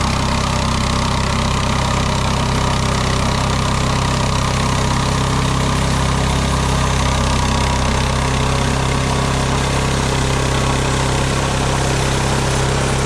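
Small gasoline engine of a Mechmaxx SM-22 band sawmill running steadily at an even pitch.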